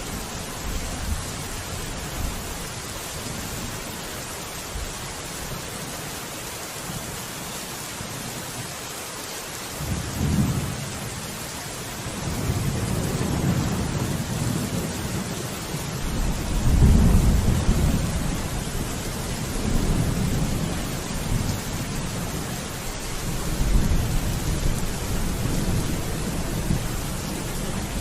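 Steady rain with rolling thunder. The rain's hiss runs on evenly, while a low rumble swells up about ten seconds in and keeps returning in waves, loudest a little past the middle and again near the end.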